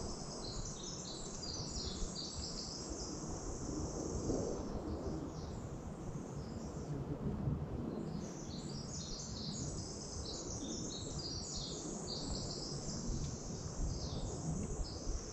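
Birds chirping, many high calls overlapping, over a steady low rumble.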